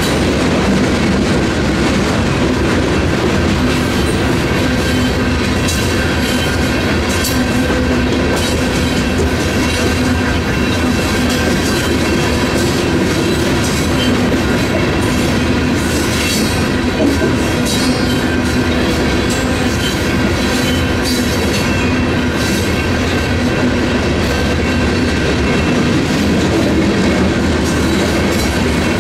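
Long freight train of loaded covered grain hoppers rolling steadily through a grade crossing: continuous rumble and clickety-clack of steel wheels over the rail. The crossing's electronic bells keep ringing over it.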